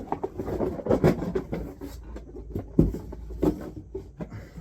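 Cardboard box and packaging being handled as a toy RC truck is pulled out: scattered rustling and light knocks, with one louder thump a little under three seconds in.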